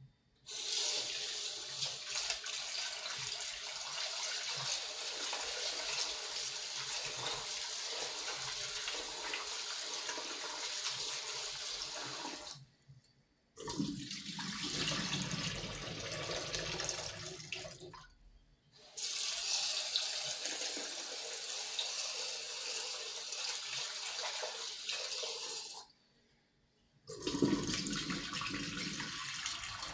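Water tap running into a sink in long, steady stretches, shut off briefly three times. For a few seconds after the first stop the sound is deeper, as the stream hits something held under it.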